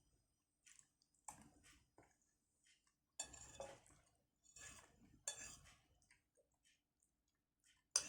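Cutlery clinking and scraping against a plate in short, irregular bursts, with a sharp clink near the end.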